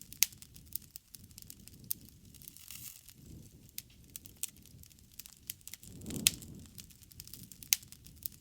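Wood bonfire crackling: irregular sharp pops and snaps over a low, uneven rush of burning flames. The loudest pops come just after the start, about six seconds in and near the end, with the low flame sound swelling around the six-second pop.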